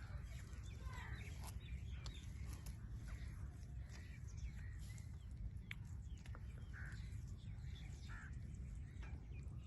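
Parrot giving scattered short chirps and squawks, with a few sharp clicks, over a steady low hum.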